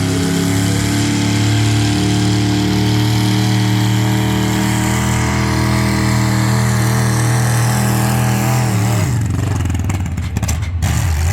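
Pulling tractor's engine running at high revs under heavy load as it drags the weight-transfer sled, its pitch sagging slowly as the load builds. About nine seconds in the revs drop sharply and the engine falls to a rough, lower running as the pull ends.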